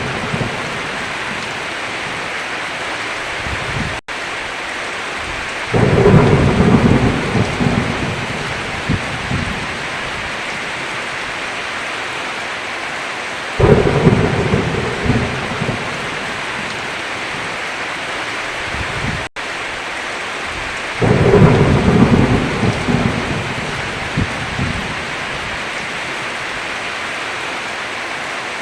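Steady heavy rain with thunder: three loud rumbles, each starting suddenly and fading over several seconds, about seven or eight seconds apart. The rain cuts out for a split second twice.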